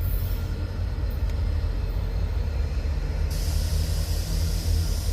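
Passenger train with EMD F40PH-2 diesel-electric locomotives running past with a steady low rumble. About three seconds in, a steady hiss joins it.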